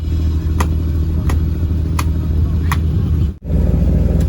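An engine running steadily with a low drone, with a faint tick repeating about every 0.7 seconds. The sound cuts out for an instant about three and a half seconds in, then carries on.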